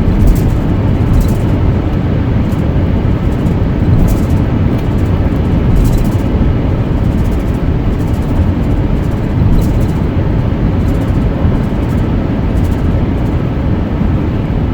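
Steady road noise heard from inside a moving car: a deep, even rumble of tyres and engine at cruising speed.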